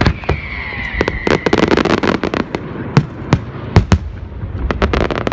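Fireworks going off: a rapid string of sharp bangs and crackling pops, with a whistle falling slightly in pitch during the first second.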